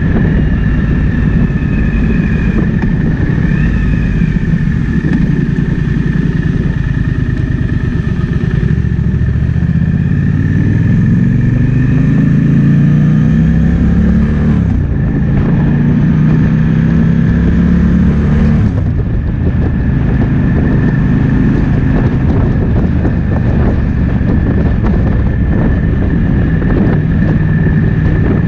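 Triumph Speed Twin 1200's parallel-twin engine running at road speed with wind noise over the microphone. The revs climb through the middle, drop sharply at a gear change about 15 s in, and fall again near 19 s before settling to a steady pull.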